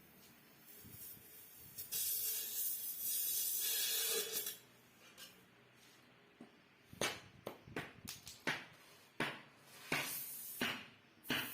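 Workshop tool sounds: a loud hiss lasting about two and a half seconds, then, some seconds later, a quick irregular string of about a dozen sharp knocks.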